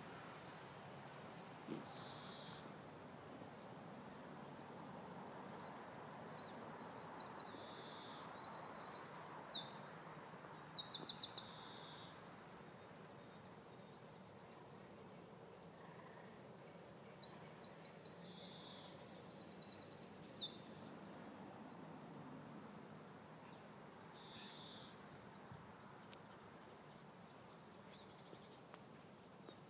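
Small birds chirping and trilling: two bouts of fast, rapidly repeated high notes, each lasting about four to five seconds, with a few single short chirps in between, over a faint steady background hiss.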